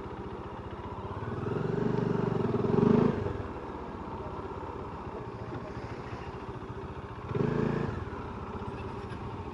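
Motorcycle engine running, with the throttle opened twice: a longer rise in engine speed peaking about three seconds in, then a short rev blip near the end.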